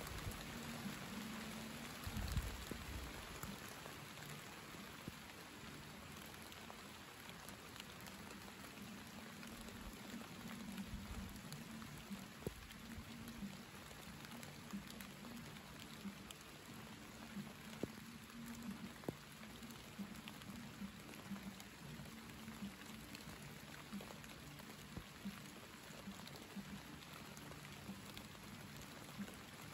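Light summer rain falling steadily, a soft hiss dotted with scattered sharper drop ticks. A faint low hum runs underneath, and a brief low rumble comes about two seconds in.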